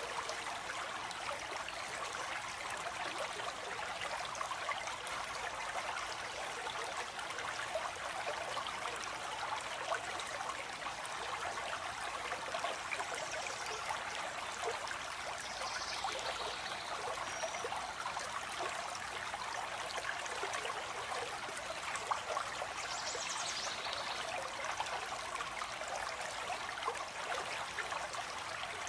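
Steady rush and trickle of a flowing stream. A few faint, high bird calls come through about halfway in and again later on.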